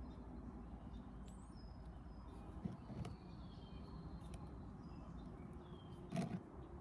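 Small bird chirping faintly: short, high calls that glide downward, repeated every second or so. A few sharp knocks, the loudest about six seconds in, over a low steady rumble.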